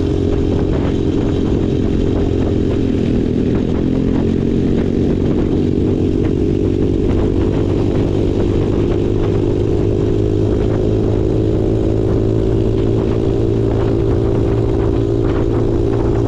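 Small single-cylinder off-road engine running steadily under way, its pitch wavering only slightly, with some faint knocks and rattles over it.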